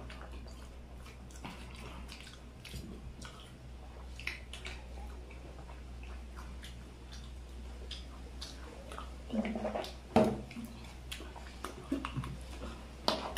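Close-miked eating: wet chewing and crunching of spicy chaat, with many small scattered mouth clicks and crackles. A brief murmur of voice about nine and a half seconds in.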